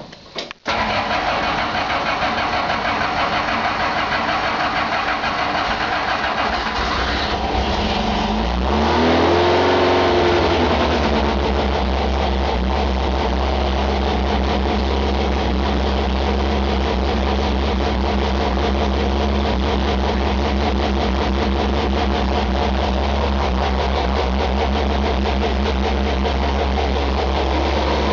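A 2700cc air-cooled VW flat-four drag engine with a .775-inch-lift cam and stepped exhaust fires up, catching less than a second in, and runs. About nine seconds in it revs up once and drops back, then idles steadily.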